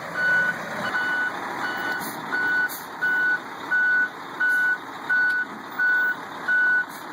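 Truck reversing alarm beeping steadily, one even high beep about every 0.7 seconds, over steady vehicle noise.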